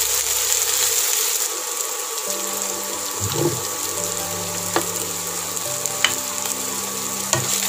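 Sliced shallots and dried red chillies sizzling steadily in hot oil in a pan, with a few light clicks in the second half.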